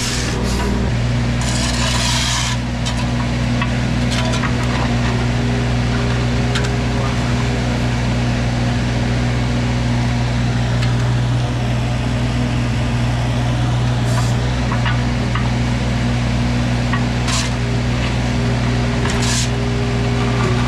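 Wacker Neuson mini excavator's diesel engine running at a steady pitch under work. A few brief harsh noises rise over it: about two seconds in, and several times near the end.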